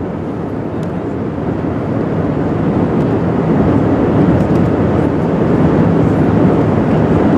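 Airbus A380 cabin noise on final approach: a steady roar of engine and airflow noise that grows gradually louder.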